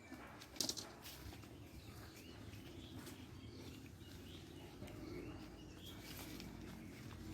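Faint bird chirps over a low steady background, with a sharp click a little over half a second in.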